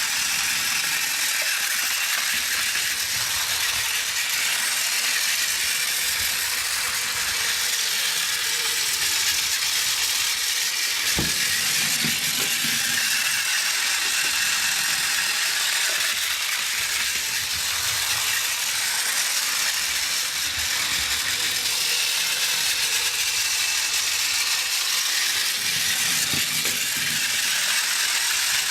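Battery-powered Plarail toy Shinkansen running: the steady, high-pitched whirring of its small motor and plastic gearbox, with a single knock about eleven seconds in.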